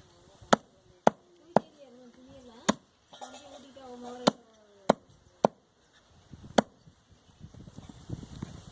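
Butcher's knife chopping goat meat, about eight sharp chops at uneven spacing.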